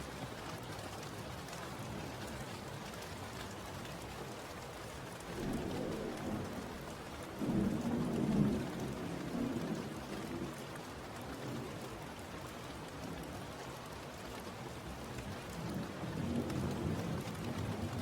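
Steady rain with thunder rolling in: a deep rumble swells about five seconds in, is loudest around eight seconds, fades, and another softer rumble comes near the end.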